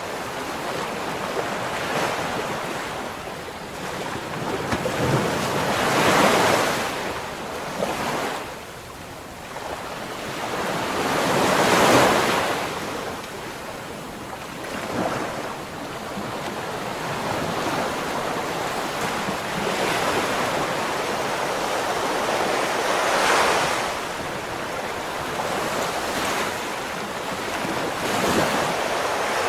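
Ocean surf: waves breaking and washing up the shore in slow swells, the biggest break about twelve seconds in. Wind buffets the microphone.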